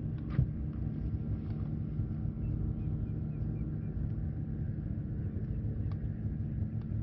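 Steady low mechanical rumble with a faint even hum, broken by a few light clicks.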